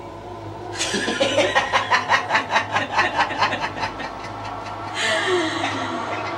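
A person laughing: a quick string of rapid laughs, about four a second, for around three seconds. A shorter burst of laughter or voice follows about five seconds in.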